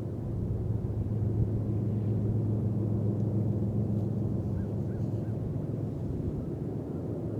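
Diesel locomotives of a CSX intermodal freight train heard across the river, their engines giving a steady low drone with a rumble. A few faint bird chirps come in about halfway through.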